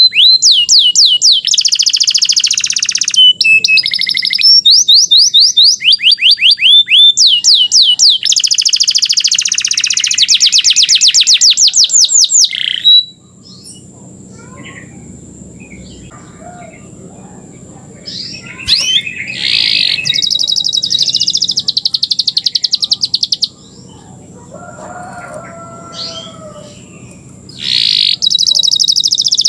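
Domestic canary singing loudly in long runs of rapid trills and fast-repeated rising notes, breaking off twice for a few seconds before starting again.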